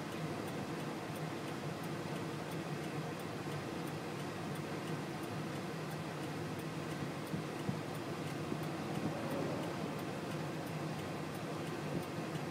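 Car engine idling with a steady low hum, heard from inside the stopped car with its window open, and a faint high ticking, about three or four ticks a second, running through it.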